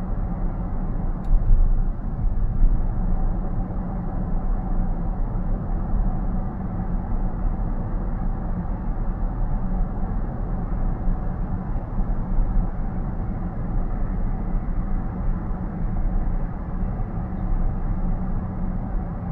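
Steady road and tyre noise inside a car's cabin while driving at about 60 km/h, with a couple of slightly louder bumps a second or two in.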